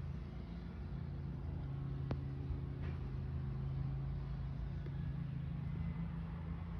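Pickup truck engine idling steadily with an even low hum, and a single light click about two seconds in.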